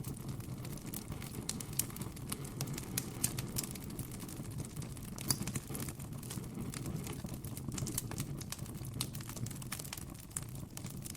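Campfire crackling: many small irregular pops and snaps over a steady low rumble, with a sharper pop about five seconds in.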